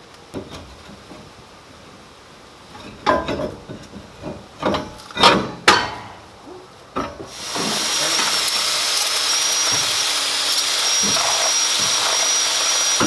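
A few sharp metal clinks and knocks, then a loud, steady hiss with a thin high whistle over it for the last five seconds or so.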